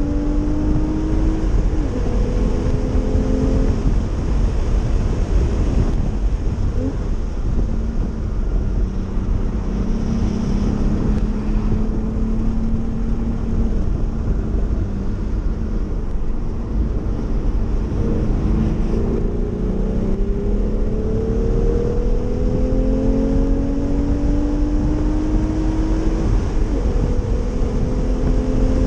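Porsche 911's flat-six engine heard from inside the cabin under hard driving: it revs up and drops back in pitch several times as it shifts up through the gears, over heavy tyre and wind noise.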